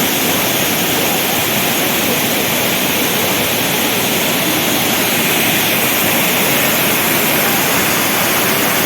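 A heavy waterfall running in full flow, giving a loud, steady rush of falling water with no change in level.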